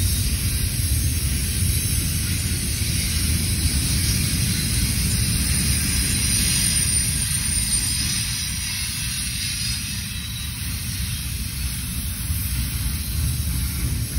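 Double-stack intermodal train's container well cars rolling past: a steady low rumble of wheels on rail with a high hiss.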